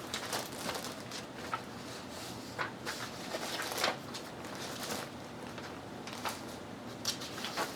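Sheets of craft paper being leafed through by hand: irregular rustles and soft taps of paper.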